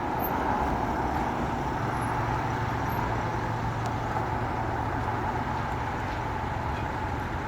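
A bus's diesel engine running steadily close by, a low hum under a broad engine noise.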